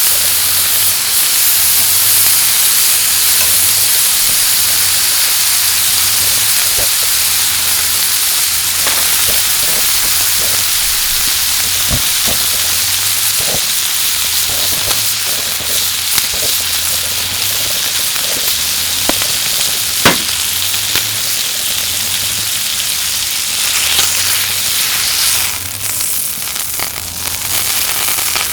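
Yakiniku meat sizzling steadily as it grills, with scattered sharp pops of fat; the loudest pop comes about 20 s in.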